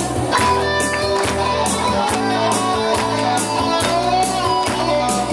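Live band playing an instrumental passage: electric guitar chords over bass and drums with a steady beat.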